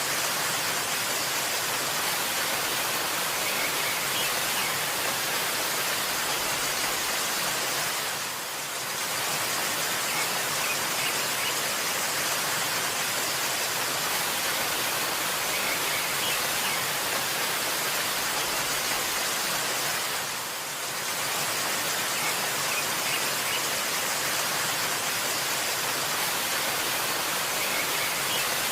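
Steady rushing of a waterfall, with faint bird chirps now and then. The rush dips briefly twice, about 12 seconds apart.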